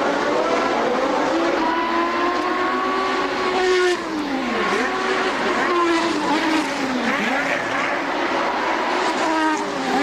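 Formula One car engines running at high revs, with more than one engine heard at once. Their pitch falls sharply about halfway through and again a few seconds later.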